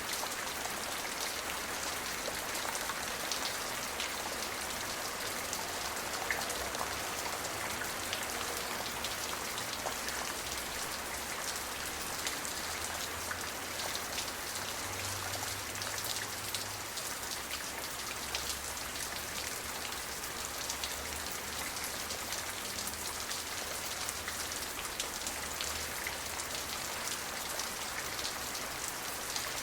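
Steady rain falling, an even hiss with many individual drops pattering on surfaces, without thunder.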